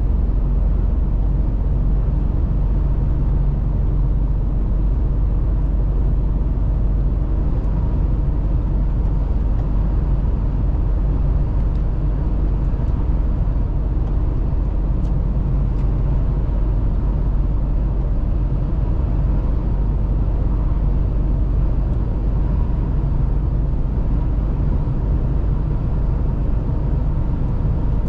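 Mercedes-Benz Actros truck underway: its diesel engine drones steadily with road noise, a deep, even rumble that holds without change.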